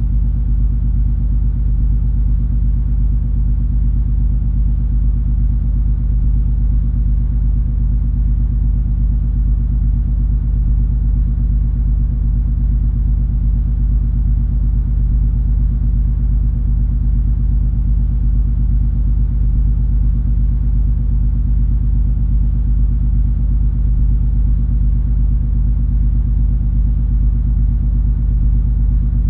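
Steady low drone of the cruise ferry MS Color Magic under way, heard on board: engine and hull rumble with a few steady low hum tones, unchanging throughout.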